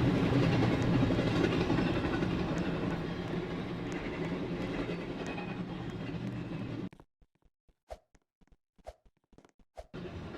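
Train passing with a steady rumble that slowly fades, then cuts off abruptly about seven seconds in. A few faint clicks about a second apart follow in near silence, and the rumble returns near the end.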